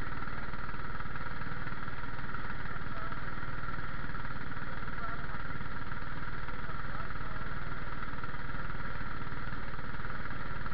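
Small racing car's engine idling steadily, a constant fast low beat with no revving.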